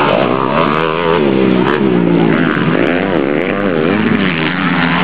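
Motocross bikes racing, engine pitch rising and falling over and over as the riders open and close the throttle.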